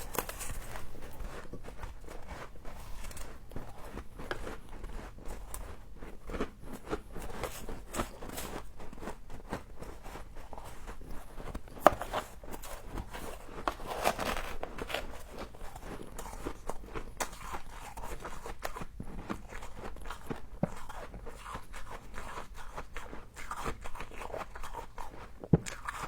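Close-up crunching and chewing of frost, a steady run of irregular crisp crunches, with two sharp louder clicks, one about twelve seconds in and one near the end.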